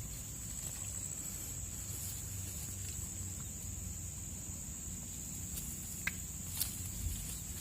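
Steady high-pitched insect chirring, with a low rumble underneath and a couple of faint clicks about six seconds in.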